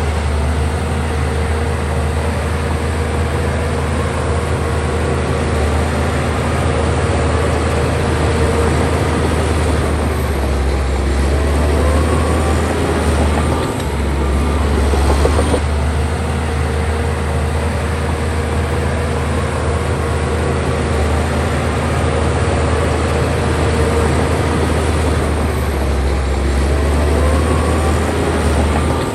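Heavy diesel engine of a bulldozer running steadily while working, a constant low drone under a dense mechanical clatter.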